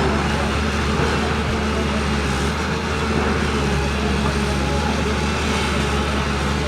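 Steady low engine rumble under a constant outdoor noise, with no break or change.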